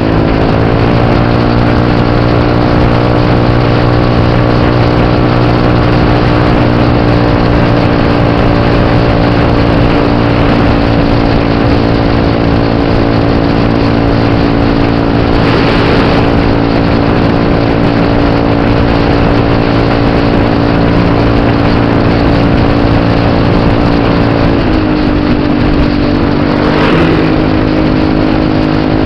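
Scooter engine running steadily under throttle, its pitch easing slightly lower about a second in and again near the end, with two brief rushing sounds, one about halfway and one near the end.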